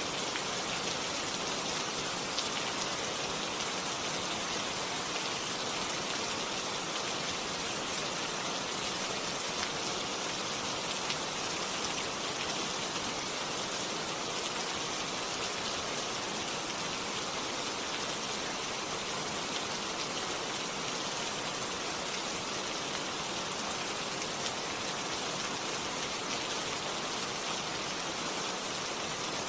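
Steady rain falling on a surface, an even hiss with fine patter of drops and no thunder.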